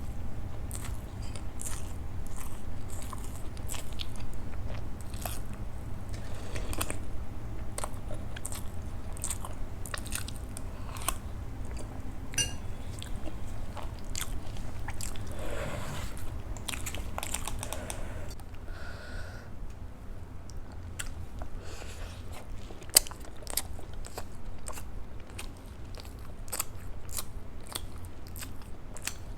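Close-miked chewing and mouth sounds of a person eating soft idli dipped in sambhar and chutney: many short wet clicks and smacks, over a steady low hum.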